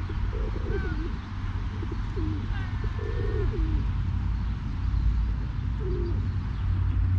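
Feral pigeons cooing, several short gliding coos in a row, over a steady low rumble.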